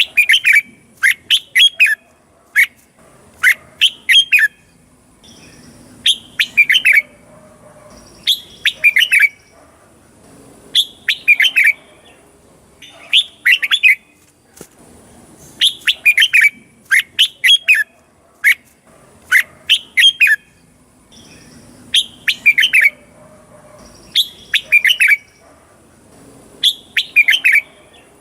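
Red-whiskered bulbul singing: short, bright, warbled phrases of quick falling notes, mostly in pairs, repeated every two seconds or so. A faint steady high tone runs underneath.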